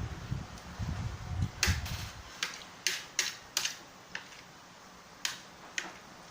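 Close-up eating sounds: low chewing thumps during the first two seconds, then a string of about eight sharp, unevenly spaced smacks and clicks that thin out after about four seconds.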